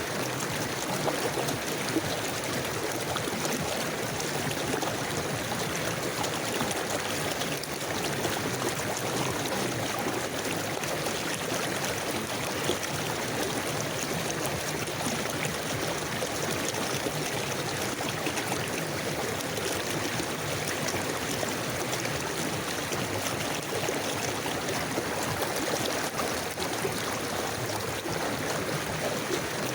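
River water flowing steadily over stones, a continuous rushing and trickling with no breaks.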